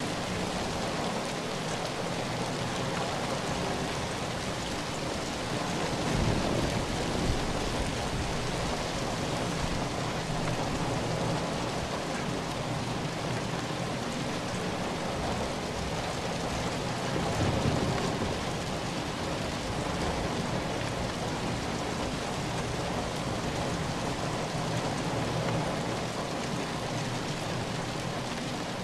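Steady rain falling, with two low swells of thunder rumbling, about six seconds in and again near the middle.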